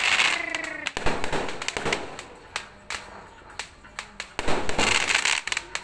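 Fireworks and firecrackers going off: a falling whistle dies away in the first second, then a scatter of sharp bangs and pops, with a louder cluster of bangs and crackle near the end.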